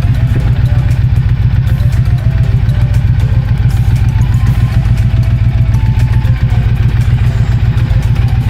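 A motorcycle engine idling steadily and loudly, a fast even low-pitched pulse with no revving.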